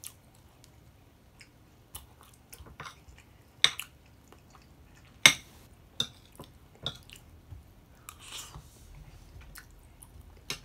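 Close-miked eating sounds: irregular wet mouth smacks and clicks of chewing, with two louder smacks about three and a half and five seconds in.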